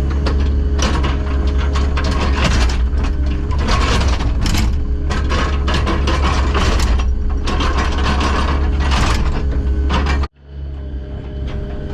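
A piece of earthmoving equipment's engine running steadily, with repeated irregular metallic clanking and scraping from the machine at work. About ten seconds in, the sound cuts out for an instant and then resumes with the engine still running.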